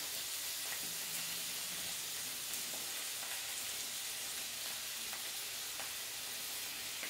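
Vegetables and pork in oil sizzling steadily in an electric skillet as they simmer, an even hiss, with a few faint clicks of kitchen shears cutting pork belly over the pan.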